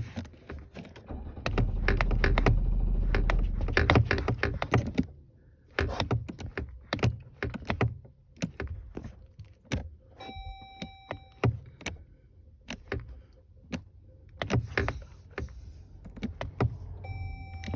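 Van engine cranking on its starter for a few seconds without catching, then a run of scattered clicks and knocks. A short dashboard warning chime sounds about ten seconds in and again near the end.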